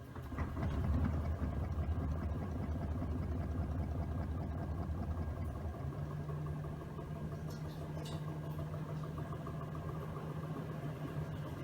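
Miele W1 washing machine's drum motor starting up and running steadily, with a low hum that steps up to a higher pitch about six seconds in as the drum speed changes.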